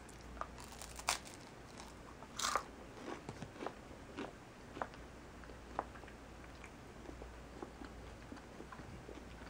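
Close-up biting and chewing of a crisp chocolate-topped puffed rice cake: a sharp crunch about a second in, the loudest crunch at about two and a half seconds, then a run of smaller crunches that thin out in the second half.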